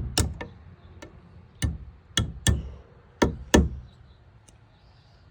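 A hammer tapping on a small drill bit held as a punch, driving the roll pin out of a truck's wing-window knob: about six sharp metallic taps, mostly in quick pairs.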